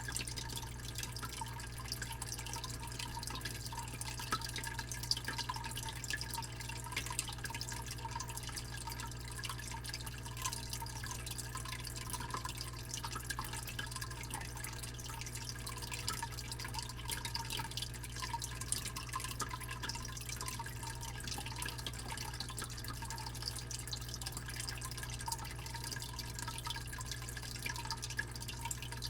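Fish tank pump humming steadily under a constant trickle of water, with fine dripping and splashing.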